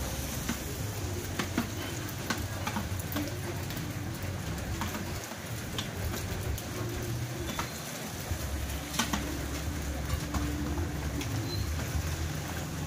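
Steady rain falling, with scattered drops ticking sharply on leaves and surfaces and a low hum underneath.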